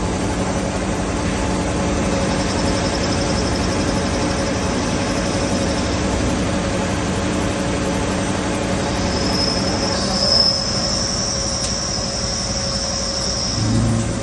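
CNC lathe running with a steady machine hum. A faint high-pitched squeal comes in early, and a stronger one starts about nine seconds in and lasts some four seconds. A short low thump comes near the end.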